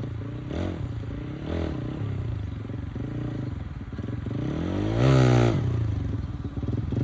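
Motorcycle engine running and being revved: two short blips about a second apart, then a longer rev that climbs and falls back about five seconds in.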